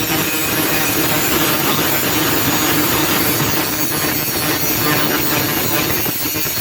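Angle grinder running steadily under load, its disc grinding the steel of an old saw blade to shape a knife.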